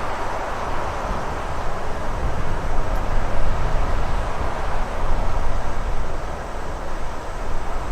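Steady rushing wind with a deep rumble underneath, swelling and easing gently in level.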